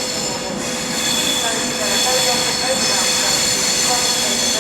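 Class 390 Pendolino electric train rolling slowly into a terminus platform, its steel wheels squealing on the rails in several steady high-pitched tones, with small squeaks over the top.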